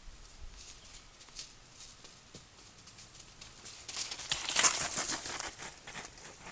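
Goats running around, heard as a rustling that swells into a loud burst about four seconds in and dies away over the next two seconds, over scattered light ticks.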